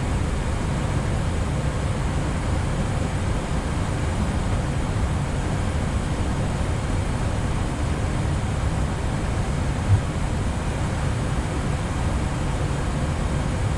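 Steady in-flight noise on the Airbus A320neo flight deck: an even rush of airflow and engine sound, with one brief low knock about ten seconds in.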